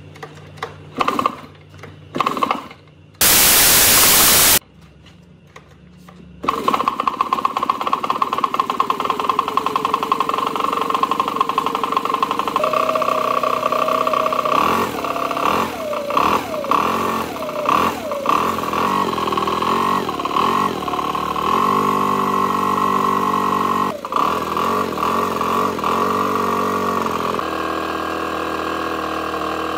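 Makita EB7660TH backpack blower's 75.6 cc four-stroke engine being started: a few short sounds and a loud burst of noise lasting about a second, then the engine catches about six seconds in and runs on. Its pitch rises and falls with the throttle in the middle, then it settles to a steady run.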